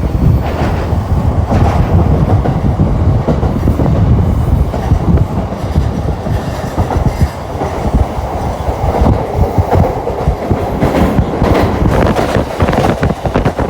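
Shinkansen bullet train running on the rails: a loud, continuous rumble with a scatter of sharp clicks that crowd together near the end.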